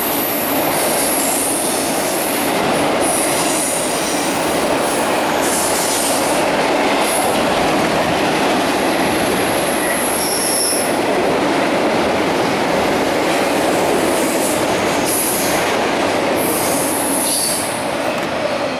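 Norfolk Southern intermodal train's double-stack container cars rolling past over a bridge: steady wheel-on-rail rumble with high-pitched wheel squeal coming and going in repeated stretches, easing off slightly near the end.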